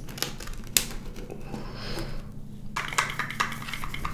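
Small, sharp plastic clicks and rattles from a toy-toilet candy container being worked by hand, with one loud click about a second in and a run of clicks near three seconds.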